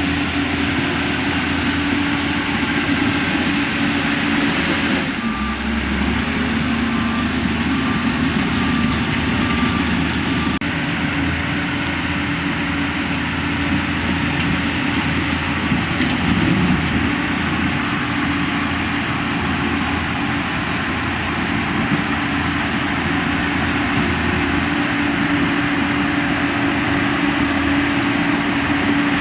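Heavy diesel construction machinery running steadily under load. For several seconds a reversing alarm beeps at an even pace of about one beep a second.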